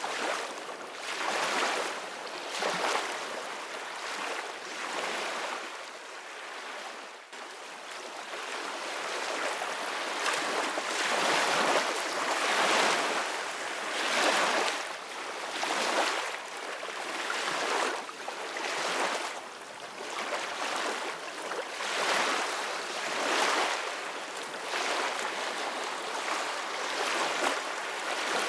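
Ocean waves washing in, a steady hiss of surf that swells and ebbs every second or two.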